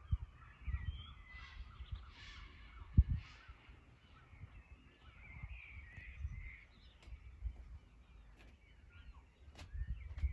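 A crow cawing three hoarse times in the first few seconds, over small birds chirping, with low thumps on the microphone, the loudest about three seconds in.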